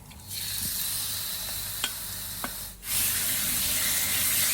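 Marinated chicken strips sizzling in hot oil in a wok over high heat. The hiss starts just after the beginning, with a couple of light clicks from a utensil, breaks off briefly about three seconds in and comes back a little louder.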